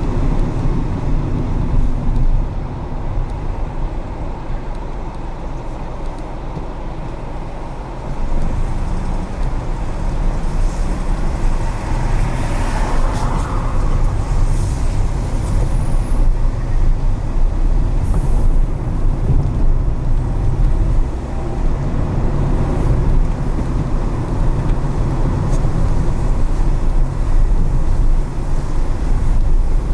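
Car driving in city traffic: steady low road and engine rumble, easing off for a few seconds and picking up again about eight seconds in.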